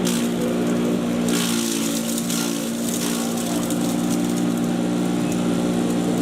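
Patriot 1.5-HP electric chipper shredder running steadily with a constant motor hum. A few short bursts of hissy noise come through between about one and three seconds in.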